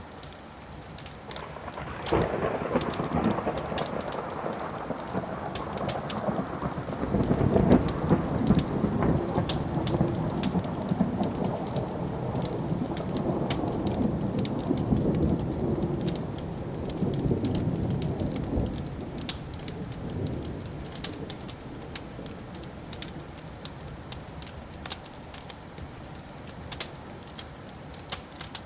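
Long roll of thunder that breaks suddenly about two seconds in, is loudest around eight seconds, rumbles on and dies away by about twenty seconds. Throughout, a wood fire crackles and pops.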